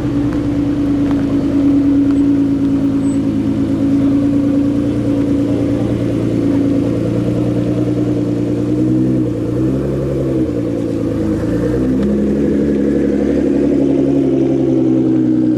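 Car engine running at a steady speed, loud and droning. About nine seconds in, its pitch briefly falls and rises again before it settles back to the same note.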